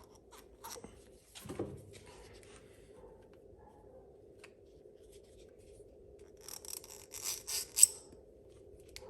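Small parts being handled and fitted onto a new fuel pump by hand: scattered light clicks and rubbing, then a burst of scraping and rustling about two-thirds of the way in that ends in a sharp click.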